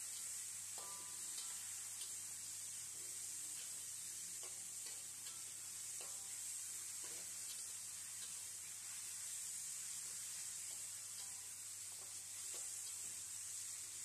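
Sliced tomatoes and chopped garlic sizzling in hot oil in an aluminium wok, with a steady high hiss. A metal spatula scrapes and knocks against the pan about once a second as the mixture is stirred.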